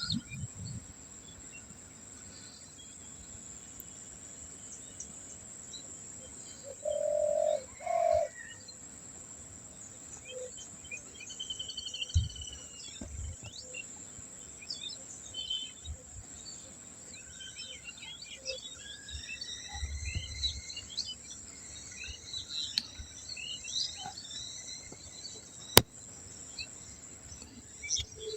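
Wild birds chirping and calling in short, high phrases, with a loud low two-note call about seven seconds in. A sharp click sounds near the end.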